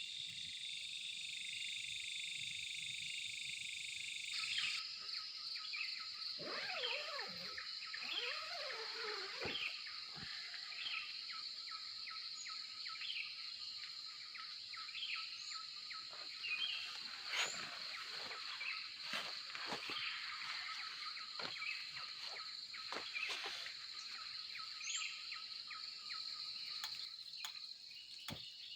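Crickets and other insects trilling steadily, with many short clicks and brief calls scattered through the middle.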